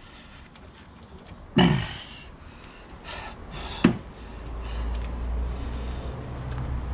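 Metal tool knocks on a car's front brake caliper carrier bolt as a 19 mm socket is fitted to undo it: a clank with a short falling ring about a second and a half in, and a sharper knock near four seconds. A low steady hum builds from about halfway through.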